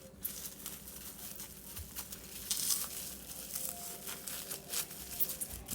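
Parchment paper crinkling and crackling irregularly as it is rolled and pressed by hand around a log of dough.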